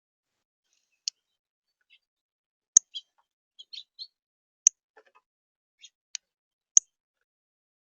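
A bird giving short, sharp, high chip calls: five loud ones spaced a second or two apart, with a few softer chirps in between.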